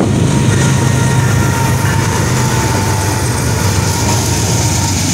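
Norfolk Southern double-stack intermodal freight train rolling through a grade crossing: a loud, steady rumble of wheels on rail. Mid-train diesel locomotives pass near the end, and a faint, thin, steady whine is heard partway through.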